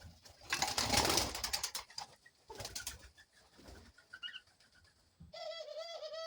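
Pet birds in their enclosure: scratching and clattering from about half a second to two seconds in, and again briefly near three seconds. Near the end comes a wavering bird call lasting about a second and a half.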